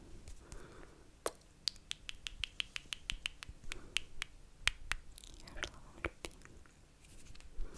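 Close-miked ASMR mouth sounds: a quick run of sharp wet clicks and smacks, with softer breathy slurping sounds before and after.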